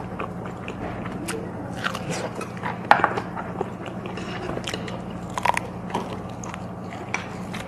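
Close-miked biting and chewing of braised pig's trotter (jokbal) meat gnawed off the bone, with many short, irregular wet mouth clicks and smacks; the sharpest click comes about three seconds in. A steady low hum runs underneath.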